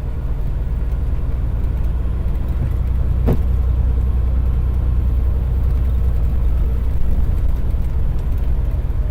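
Semi truck on the move: a steady low engine and road rumble, with one brief click about three seconds in.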